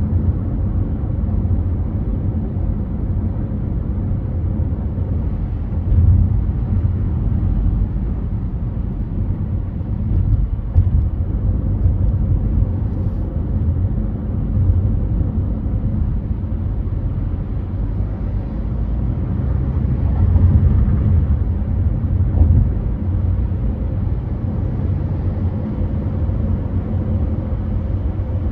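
Car driving on a freeway: a steady low rumble of road and engine noise, swelling briefly a few times.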